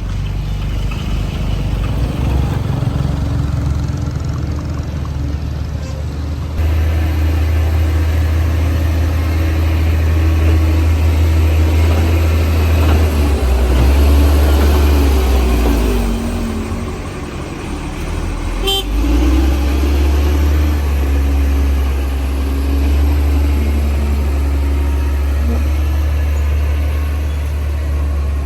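Bulldozer's diesel engine running steadily, with a sudden rise in level about a quarter of the way in and a brief dip around two-thirds through before it picks up again.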